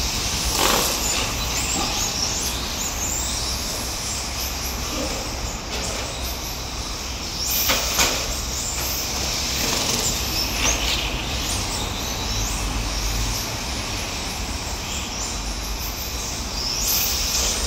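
Electric RC cars with 10.5-turn brushless motors running laps: high motor whines rise and fall as the cars speed up and brake, with a few sharp knocks, the loudest about eight seconds in.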